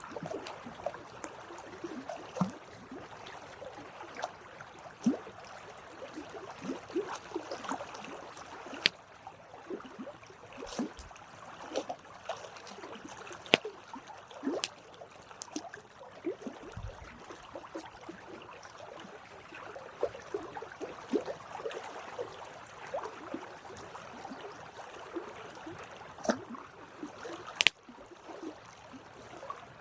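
Wood campfire burning, crackling and popping irregularly over a soft hiss, with a few louder sharp snaps.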